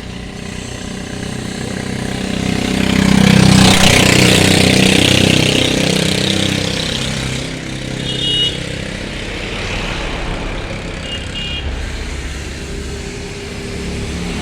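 A motor vehicle's engine running and passing close by, growing loud about three to five seconds in and then fading back to a steady running sound. A few short high tones are heard later on.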